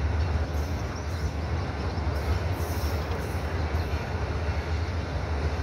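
Passenger train rolling along the track, heard from an open window of the moving coach: a steady low rumble of wheels on rails.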